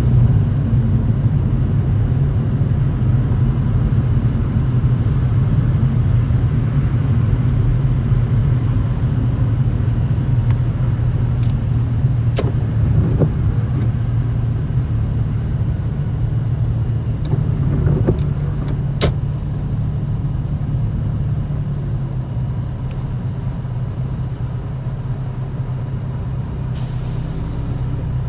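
Toyota Chaser GX100's 2.0-litre straight-six heard from inside the cabin at low speed, a steady low exhaust drone through an aftermarket Reinhard cannonball muffler with a mid-pipe silencer. A few short clicks come around the middle.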